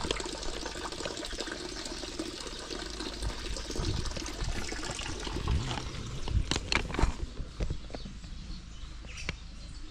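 Water running with a steady hiss that fades away, with a few knocks and thumps about halfway through.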